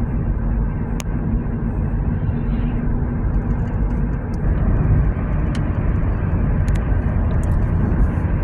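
Car driving, a steady low road-and-engine rumble heard from inside the cabin, with a few light clicks.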